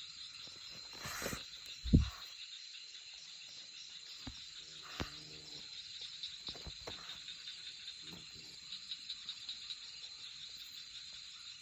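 Steady chorus of insects chirring in rapid high pulses. A few knocks and rustles break through it, the loudest a single thump about two seconds in.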